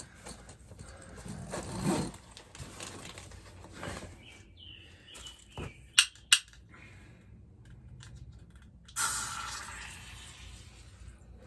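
Rustling and handling of gear by hand, with two sharp clicks in quick succession about six seconds in and a burst of hiss about nine seconds in that fades away.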